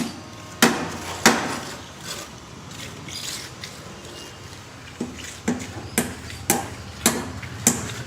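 Hammer blows on timber formwork: two sharp strikes in the first second or so, then from about five seconds in a steady run of roughly two blows a second, over a steady low hum.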